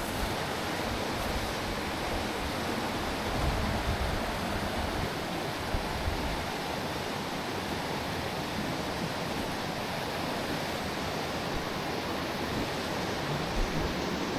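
Mountain stream water rushing steadily, an even hiss of running water.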